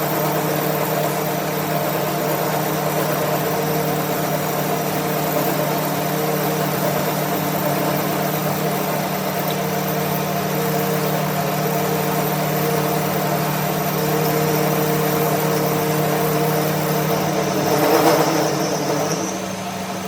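A machine running steadily with an even hum, growing briefly louder near the end and then dropping back a little.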